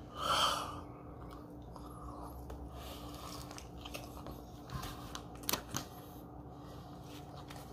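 Close-up eating sounds: a person biting into and chewing a hamburger with lettuce, with a few soft mouth clicks. A brief louder noise comes right at the start.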